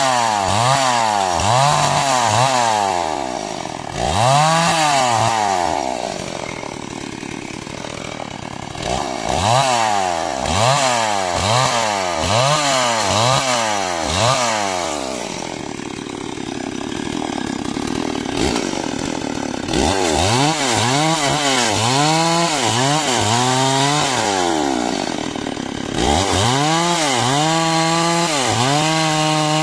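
Two-stroke chainsaw cutting timber into beams. The engine pitch rises and falls over and over, about once a second, with two quieter spells, and holds steadier and high near the end.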